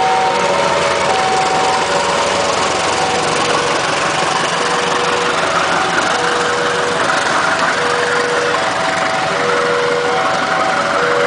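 Railway level-crossing warning alarm sounding a repeating pattern of short electronic tones at several pitches, over steady engine noise that grows louder about six seconds in.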